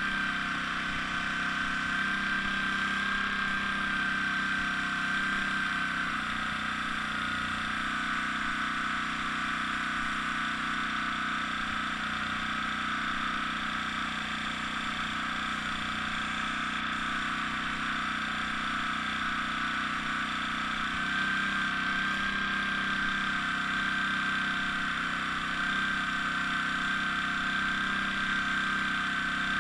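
Airbrush air supply running: the steady hum of a small compressor with a high whine over it, and the hiss of air through the airbrush.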